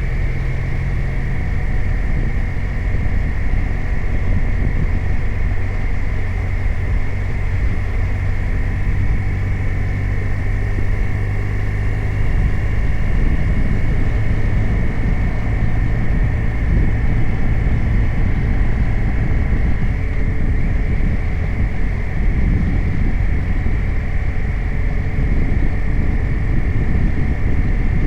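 BMW R 1250 RT motorcycle's boxer-twin engine running steadily on the move, with wind and road noise. Its even engine note is clear for the first half, then turns into a rougher, slightly louder rumble.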